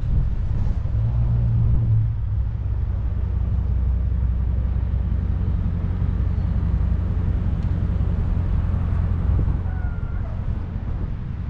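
Steady low rumble of a car's 392 HEMI V8 running as the car rolls slowly, a little stronger about a second in.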